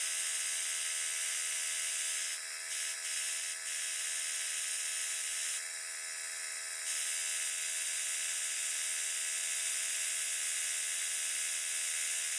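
Band sawmill running and cutting through a log, a steady mechanical whir with a constant high whine. The sound dips briefly twice in the middle.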